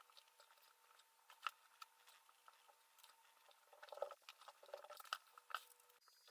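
Faint scattered clicks and crackles of enamelled copper wire being wound by hand onto a brushless motor's stator tooth, busier about four seconds in, over a faint steady hum.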